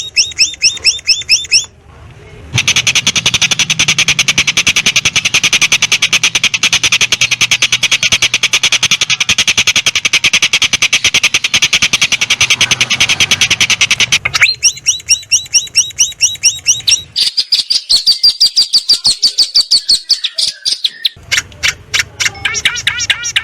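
Songbird calls from a master track for training long-tailed shrikes: series of fast repeated high chirps. A long, fast buzzing rattle runs from about two seconds in to past the middle. Near the end the chirping comes back, with a high warbling phrase.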